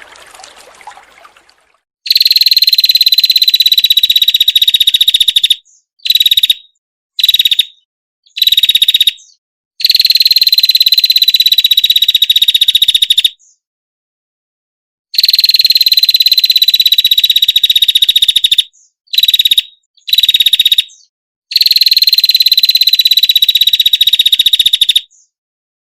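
A songbird's loud, rapid buzzing trill, a slightly falling high note, given in long phrases of about three seconds with short bursts between them; it starts about two seconds in, after faint trickling noise.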